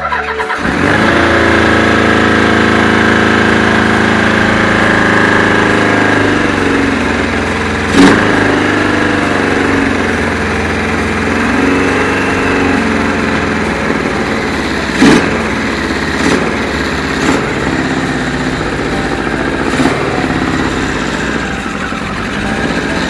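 Kawasaki KZ1000's air-cooled inline-four motorcycle engine firing up with freshly serviced carburetors and running, its speed rising and falling. Several sharp pops stand out over the running, about five in all from a third of the way in.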